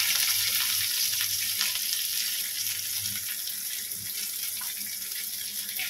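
Green chilies stuffed with minced fish sizzling in hot oil in a nonstick wok, a steady high hiss, with a few light spatula taps as the pieces are turned.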